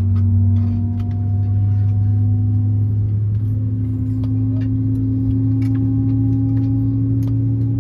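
Airbus A320 cabin noise before departure: a steady low drone with a steady hum tone above it, which steps up slightly in pitch about three seconds in. Faint scattered clicks sound over it.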